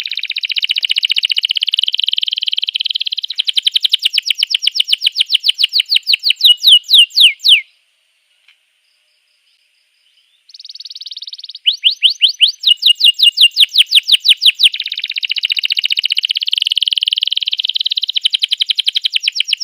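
Domestic canary singing a long trilled song: fast runs of repeated high notes that change from phrase to phrase, some sweeping downward. The song breaks off for about three seconds midway, then starts again.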